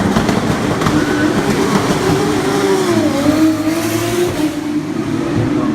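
Formula 2 cars' turbocharged 3.4-litre V6 engines running at speed on track. The main engine note drops in pitch about three seconds in, then climbs again as the car comes back on the throttle.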